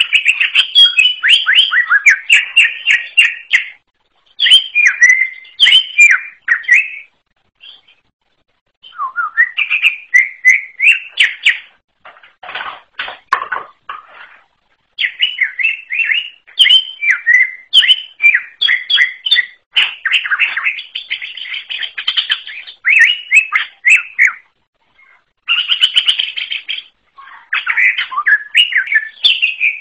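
Cucak ijo (green leafbird) singing a fast, varied song of whistles and chattering trills in bursts of a few seconds with short pauses, including a harsher, lower passage about halfway through.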